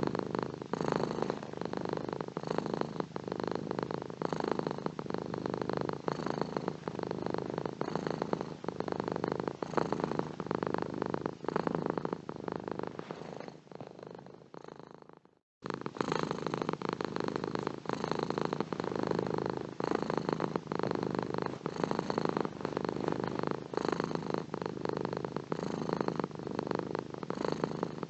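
Domestic cat purring steadily in a fast, close-up, even rhythm. About halfway through it fades away to nothing, then starts again abruptly a moment later.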